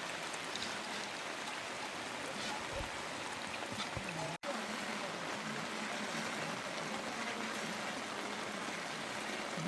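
Heavy rain falling with running water, a steady hiss that drops out for an instant about halfway through.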